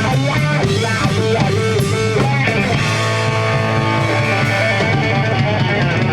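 Rock band playing an instrumental passage: guitar over bass and drums. About two and a half seconds in, the guitar moves to long held notes.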